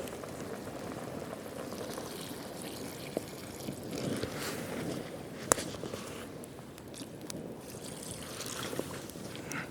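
Steady rain falling, with scattered small ticks and one sharp click about five and a half seconds in.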